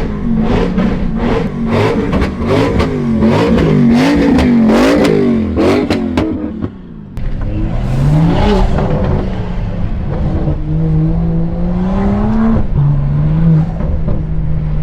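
Car engines revving hard, the pitch swinging up and down over and over, with sharp cracks among the revs. After a brief break, a single car engine pulls steadily and drops in pitch once as it shifts up a gear.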